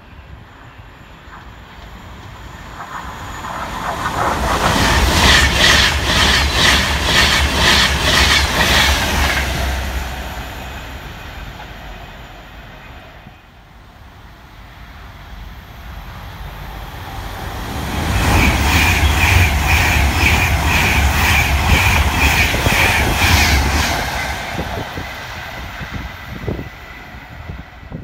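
Two electric passenger trains passing at speed, one after the other. Each rises to a loud rush of wheels on rail with a regular, rapid clicking, then fades away. The first peaks about five to nine seconds in and the second about eighteen to twenty-four seconds in.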